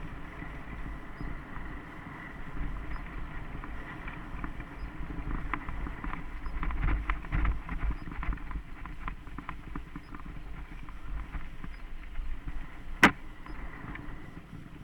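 Mountain bike rolling over a dirt trail: a continuous low rumble with clicks and rattles of the bike over bumps, busiest midway. One sharp knock near the end.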